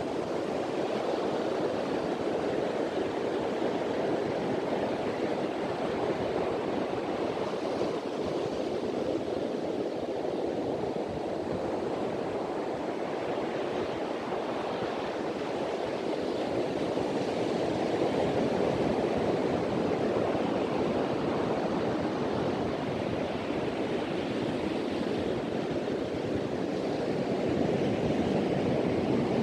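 Sea surf washing steadily onto a beach with wind, its rushing noise swelling and easing slowly with the waves.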